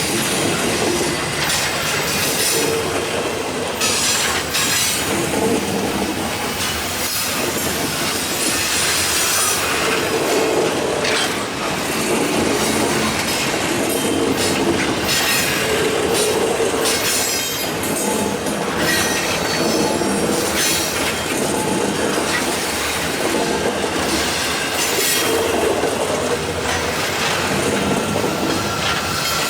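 Long freight train grinding slowly uphill past the listener, its cars' steel wheels squealing against the rails, with irregular clacking and knocking as the wheels pass over the track.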